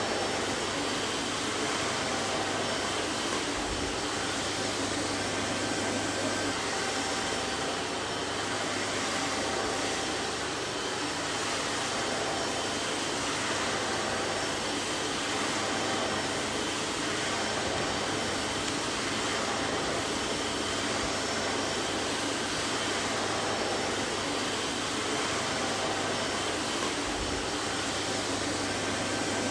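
Vacuum cleaner running steadily: an even rushing noise of air with a faint whine held at a constant pitch and a low hum underneath.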